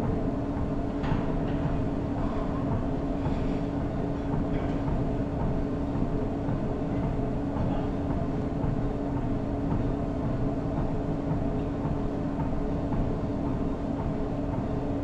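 Treadmill running: a steady motor hum with a fixed whine and a continuous low rumble from the belt and deck.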